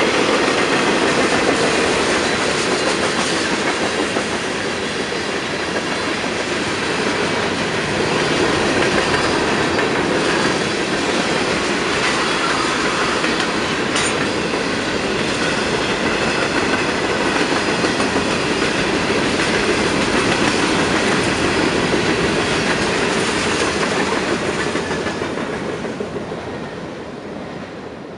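Freight cars of a manifest train rolling past on the rails, a steady loud rolling rail noise. The noise fades over the last few seconds as the end of the train moves away.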